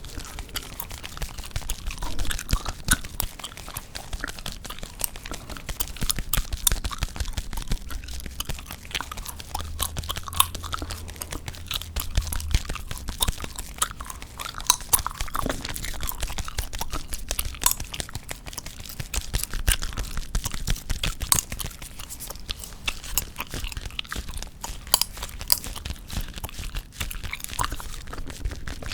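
Gum chewed close to a sensitive microphone: a dense, continuous stream of sharp clicks and smacks from the mouth.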